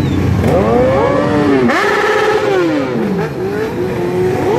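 Several motorcycle engines revving together, their pitches climbing and falling over one another, with a hard rev about a second and a half in.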